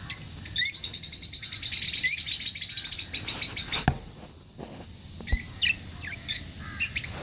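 Lovebirds chirping: a fast, high-pitched chatter of repeated chirps for about three seconds, then a sharp click and a few separate short calls.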